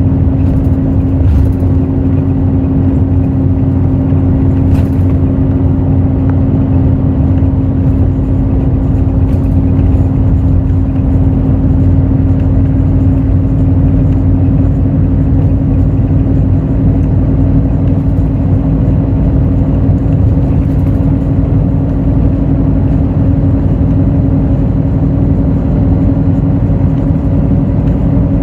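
Cabin sound of a Hino RN8JSVU bus under way, its 7.7-litre Hino J08E-VD diesel engine running at steady revs over a low road rumble, with an even hum held at one pitch.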